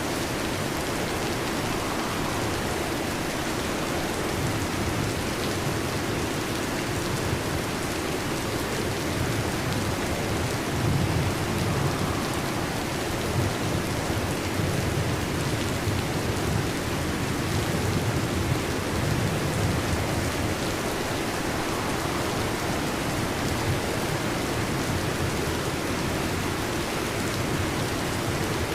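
Steady heavy rain falling, with low rolls of thunder that swell and fade, strongest about eleven seconds in and again around eighteen to twenty seconds.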